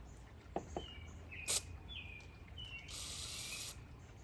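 Small clicks of carburetor parts being handled, then a short hiss about three seconds in, typical of an aerosol can of carburetor cleaner being sprayed. Faint high chirping tones run through the middle.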